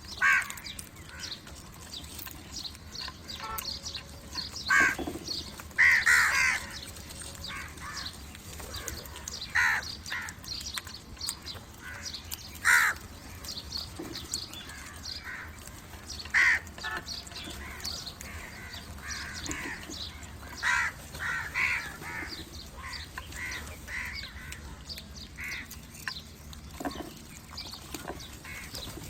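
Crows cawing: loud single caws and short runs of caws at irregular gaps of a few seconds, with fainter calls in between.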